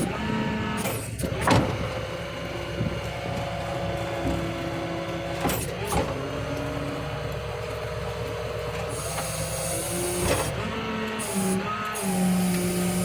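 A 2007 GMC C5500 rollback tow truck's engine running, its pitch shifting up and down in steps, with a few sharp clunks along the way.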